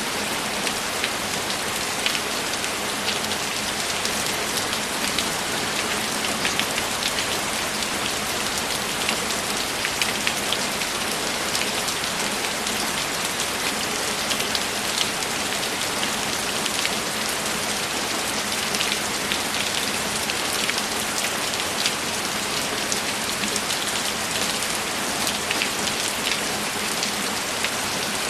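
Steady rain falling, with many individual drops heard as small, irregular ticks over an even wash of rainfall.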